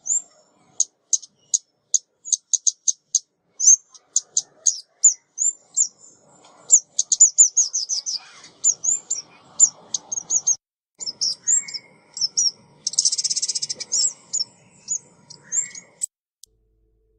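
Female 'ốc mít' songbird calling, a decoy recording: rapid high, thin chirps and short downslurred notes in quick runs, with a fast trill about 13 seconds in. The calls stop shortly before the end.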